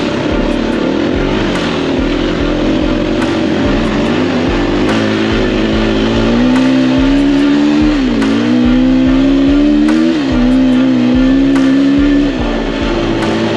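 Off-road motorcycle engine running under throttle, its pitch climbing steadily. It dips sharply twice, about eight and ten seconds in, and falls back near the end.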